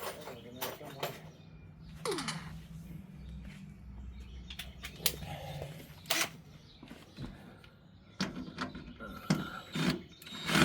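Scattered sharp clicks and knocks of a hand tool and screwdriver bits being handled and fitted to a screw, over a low steady hum through the middle.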